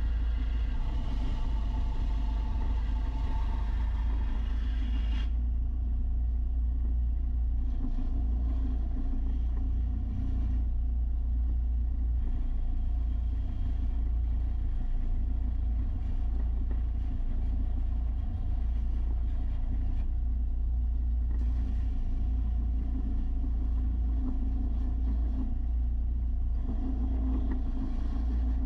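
Electric belt sander running steadily with a low hum, its brighter grinding hiss and whine strong for about the first five seconds, then dropping off abruptly and returning in stretches, as a steel mower blade is pressed to the 300-grit belt and lifted away.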